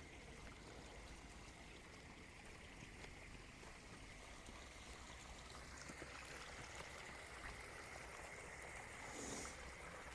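A faint chorus of frogs chirping along a creek, a steady trill that grows denser about six seconds in. There is a brief rustle near the end.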